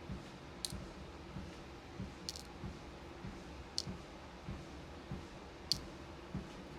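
Footsteps thudding steadily on a walking pad, a little under two steps a second, over a faint steady hum. Four sharp clicks of beads being sorted stand out above the steps.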